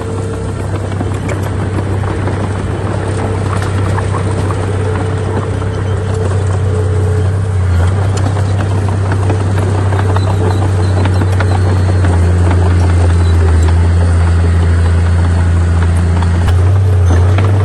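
Heavy diesel earthmoving machinery running with a steady deep drone, mixed with scattered clanks and rattles, and growing a little louder partway through.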